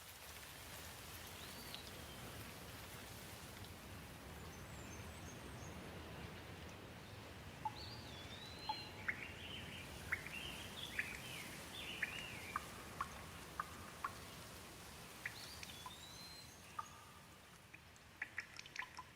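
Steady rain falling, with birds chirping and whistling over it, mostly through the middle. Near the end the rain thins and short sharp drips come in.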